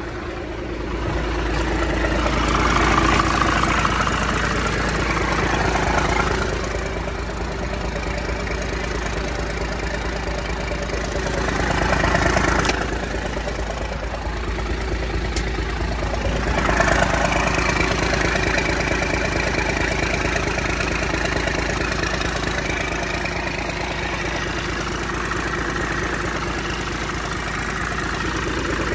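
12-valve Cummins diesel truck engine running at idle, swelling louder three times as if revved. It is running rough, which the owner puts down to the engine needing to be cleaned out.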